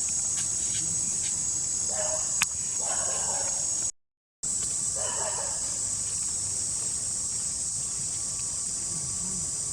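Steady high-pitched drone of an insect chorus, with a single sharp click about two and a half seconds in. Near the middle the sound drops out completely for about half a second.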